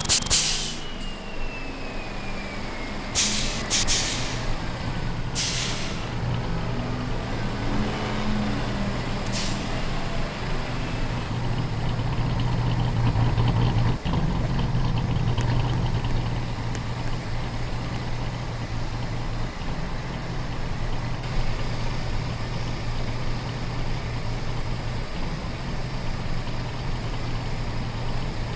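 Truck engine running steadily, with a high whine that falls away over the first several seconds and a few short, sharp noises about three to six seconds in.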